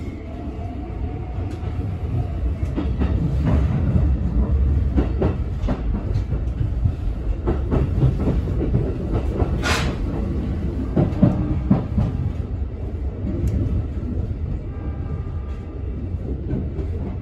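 Keikyu New 1000 series (1500 subseries) electric train running, heard inside the car. The traction motor and inverter whine rises in pitch over the first couple of seconds as the train accelerates; the uploader suspects a Toyo Denki SiC inverter like the 1890 subseries'. Under it is a steady wheel-on-rail rumble with repeated clicks over rail joints, and one sharp, louder click about ten seconds in.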